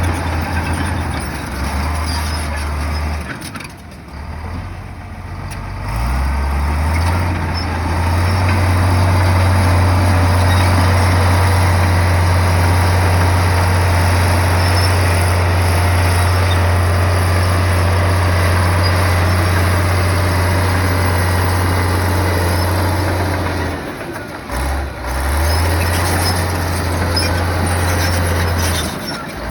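Komatsu bulldozer's diesel engine running steadily. Its speed drops about four seconds in and again near the end, climbing back up in pitch each time.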